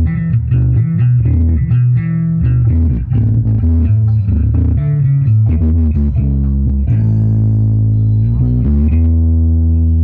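Loud rock-style music with a heavy bass guitar, played through a PA sound-system demonstration, the low end very strong; a few seconds before the end the bass settles into long held notes.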